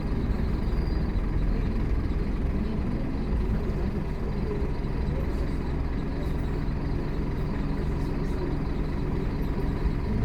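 Scania K230UB Omnilink single-deck bus's five-cylinder diesel engine running steadily under way, with road noise.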